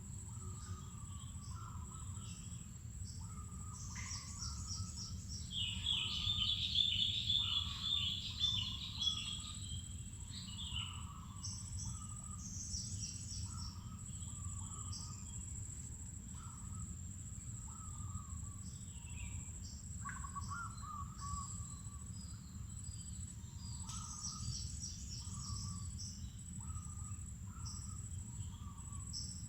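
Wild birds calling and singing over a steady high-pitched insect drone. A fast, chattering high trill about six to nine seconds in is the loudest, with short lower calls repeating about once a second and a few brief high trills, over a low rumbling background.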